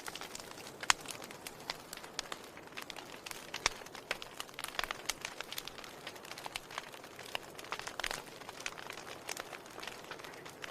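Wood fire burning with a soft hiss and frequent irregular crackles and pops.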